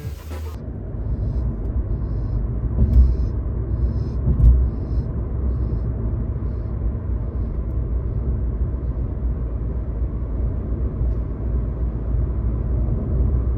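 A steady low rumble, with two brief louder swells about three and four and a half seconds in. Faint high chirps repeat roughly twice a second above it during the first half.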